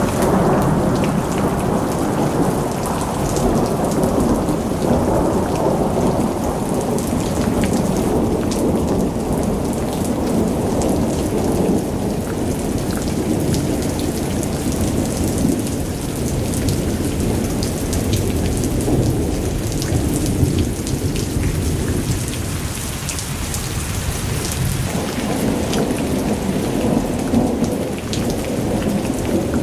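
Heavy rain pouring down: a dense patter of drops over a low, continuous rumble that eases briefly about two-thirds of the way through and then builds again.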